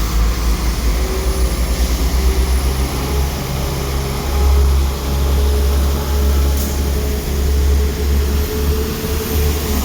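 Diesel train engine running with a steady drone over a heavy low rumble.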